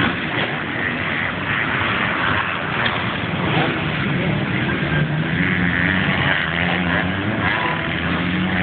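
Motocross dirt bike engines running on the track, their pitch rising and falling as they rev.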